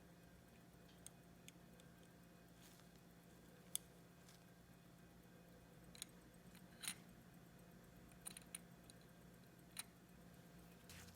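Near silence broken by a handful of sharp, irregular small clicks and taps, the sound of small tools and parts being handled at a watchmaker's bench.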